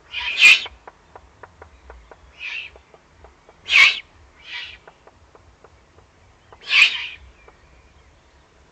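Eurasian eagle-owl chicks giving rasping, hiss-like begging calls, about every three seconds with quieter ones between, as they are fed at the nest. Faint scattered clicks and ticks run underneath.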